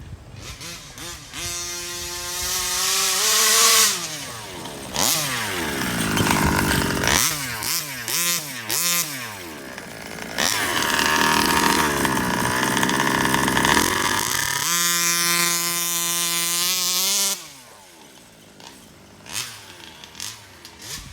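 Ported 36cc two-stroke engine of a 1/5-scale RC truck, revved hard again and again with its pitch climbing and falling through acceleration runs. About fifteen seconds in it holds a steady pitch for a couple of seconds, then drops off sharply to a much quieter level with only short blips.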